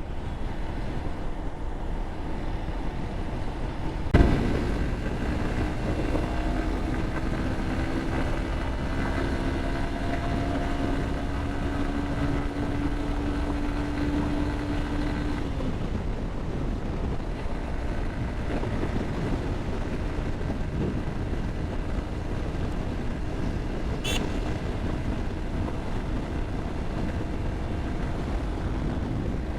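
Wind rushing over the microphone with a motorcycle running at highway speed. A single knock about four seconds in, then a steady engine note that rises slowly for about ten seconds before fading into the wind.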